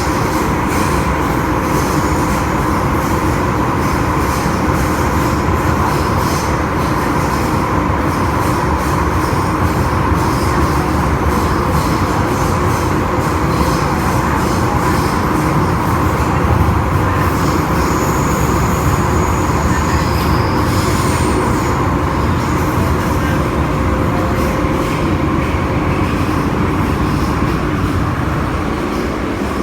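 MTR Tseung Kwan O line M-Train electric multiple unit running at speed: a steady wheel-on-rail rumble with a held hum from the traction equipment. Faint high squeals come from the wheels about two-thirds of the way through, and the noise drops a little near the end.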